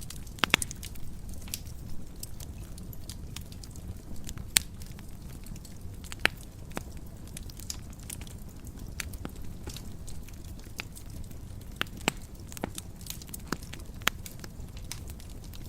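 Fire burning in a fireplace: a steady low rumble of flames with sharp crackles and pops at irregular intervals, a few of them louder snaps.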